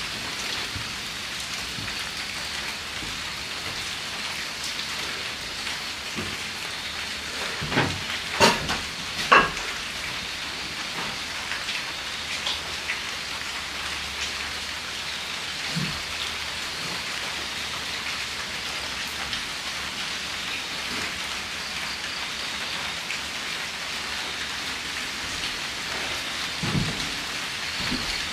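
Steady drizzle pattering on the hut, with a few sharp knocks about eight to nine and a half seconds in and another near the end.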